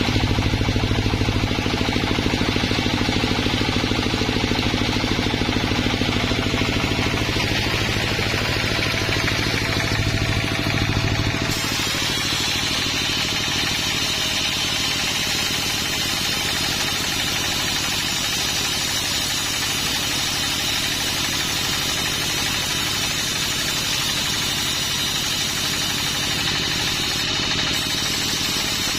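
Sawmill machinery running steadily with a deep engine hum. About eleven seconds in the sound changes: the low hum falls away and a higher, steady whine takes over.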